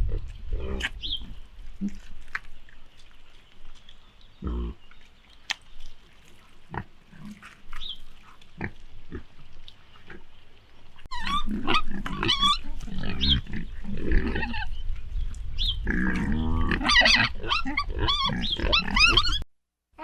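Pigs grunting and squealing. Short scattered calls at first, then from about eleven seconds a louder run of overlapping high squeals that cuts off suddenly just before the end.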